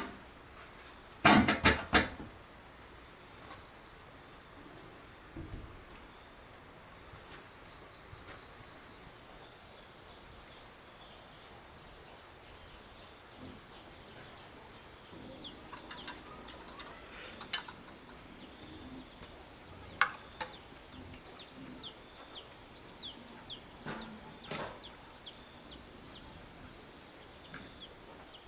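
Steady high-pitched chorus of insects droning without a break, with a few sharp knocks just after the start and another about 20 seconds in.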